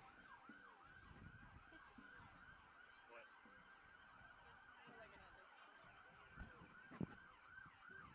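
Near silence: faint background ambience with a soft, steady warbling pattern and a couple of faint knocks near the end.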